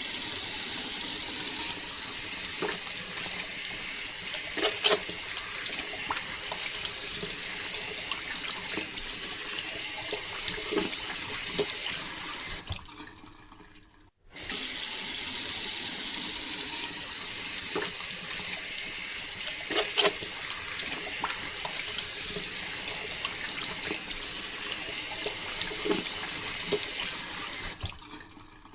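Water pouring steadily from a small pump's outlet pipe, with a few sharp clicks. It fades out about halfway through, then starts again.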